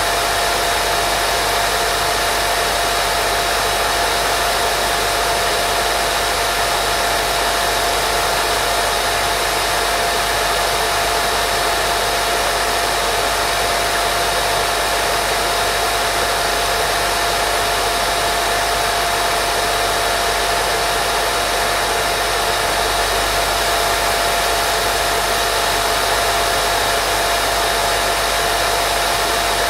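Continuous white noise for baby sleep: an unbroken, steady hiss with a constant mid-pitched hum running through it.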